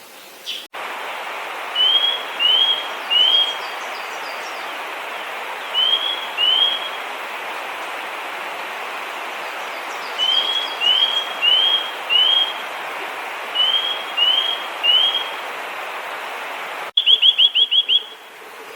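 Eurasian nuthatch calling clear, upward-sweeping whistled notes in short groups of two to four, over a steady background hiss. Near the end it gives a quick run of about six notes.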